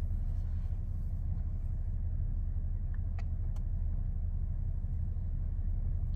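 Steady low rumble of a car's interior with the engine running, with two or three faint clicks about three seconds in.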